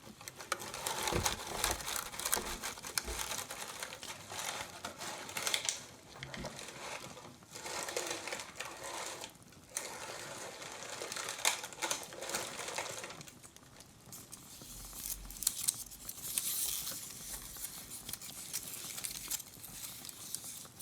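Crinkling and rustling of packaging in uneven bursts as handmade Christmas stars are handled in their box, dropping to a quieter stretch a little past the middle.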